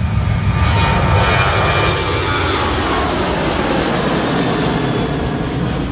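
Jet airliner passing close by, its engines a loud rumble and roar. The whine falls in pitch over the first few seconds as the plane goes past.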